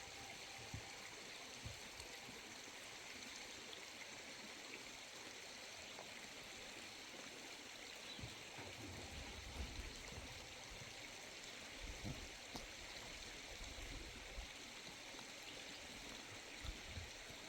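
Steady rushing noise, like a flowing stream, with scattered soft low thuds.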